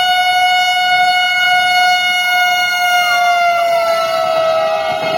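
Vande Bharat Express train horn sounding one long, held note, its pitch dropping slightly about three and a half seconds in as the train comes past.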